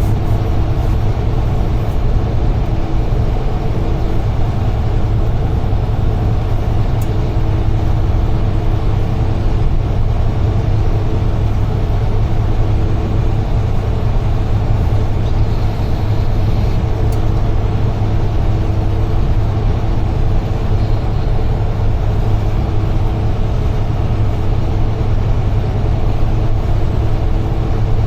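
UD Trucks Quon heavy truck driving at speed, heard from the driver's cab: a steady low engine drone with road noise, and a faint steady tone that comes and goes.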